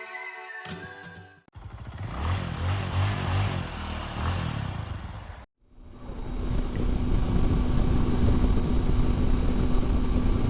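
Background music ends about a second and a half in, followed by a motorcycle engine running. After a sudden cut about halfway through, a Triumph Tiger 800's three-cylinder engine hums steadily at cruising speed, with wind noise over it.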